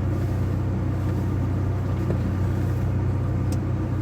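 GAZ Gazelle's ZMZ-405 engine running, a steady low rumble.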